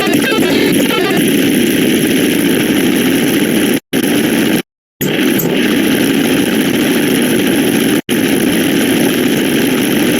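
Loud, harsh, heavily distorted noise from spliced sound-effect clips, broken by abrupt short silences about four seconds in, around five seconds and about eight seconds in.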